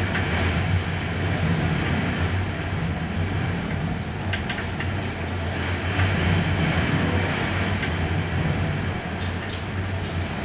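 Typhoon wind and rain: a steady rushing roar with heavy low rumble that swells and eases in gusts. A few sharp knocks come about four seconds in and again near nine seconds.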